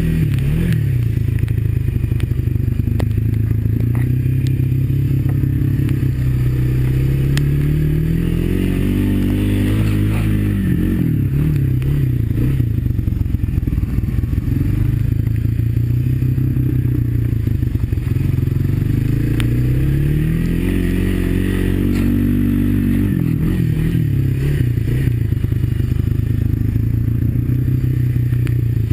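Honda ATV's single-cylinder four-stroke engine running on the move, its pitch climbing twice as the throttle opens and dropping back as it eases off.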